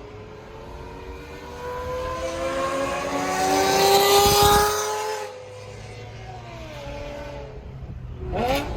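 A high-performance car accelerating hard, its engine and exhaust note rising steadily in pitch and growing louder for about four seconds. About five seconds in the note drops off sharply, and a quieter, falling note follows as it eases off.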